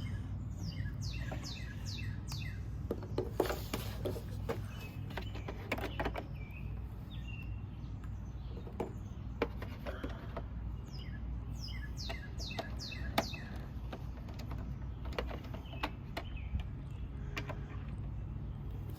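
A bird singing two runs of quick falling chirps, over a steady low rumble, with scattered small clicks and knocks.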